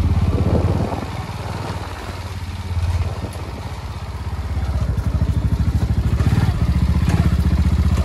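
A motorcycle engine running with a steady pulsing beat. It gets quieter about a second in and louder again over the last few seconds.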